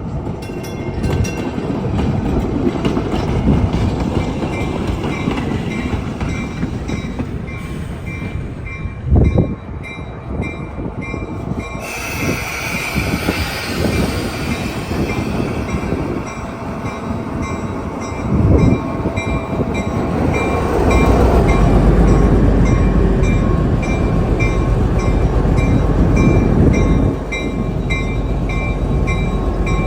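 A train running on the rails, with wheel clatter and a steady rumble that grows heavier about two-thirds of the way through.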